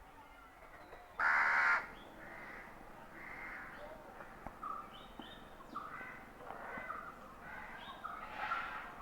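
Bird calls: one loud, harsh call about a second in, then a run of quieter harsh calls repeating every half second or so.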